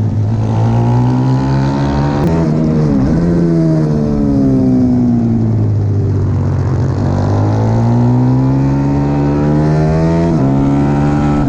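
Racing pit bike engine pulling hard through the gears: its note climbs, drops sharply at each gear change, falls away as the bike slows, then climbs again to another shift near the end.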